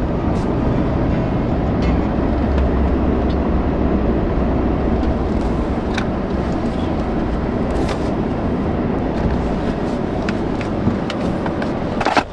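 A pickup truck driving at road speed: steady engine and road noise, with a few faint clicks.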